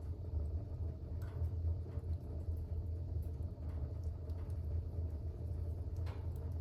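Fire burning in a fireplace: a steady low rumble of the flames with a few faint crackles.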